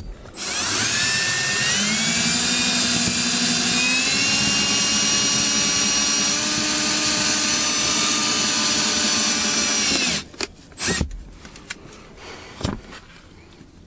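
Power drill running steadily for about ten seconds, driving the Rolladeck winder that pulls the cutting wire through the windshield's urethane bead. Its whine steps up in pitch about two seconds in, then stops suddenly, followed by a few light knocks.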